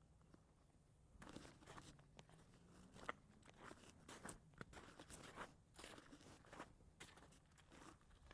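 Footsteps crunching underfoot, irregular and fairly faint, starting about a second in.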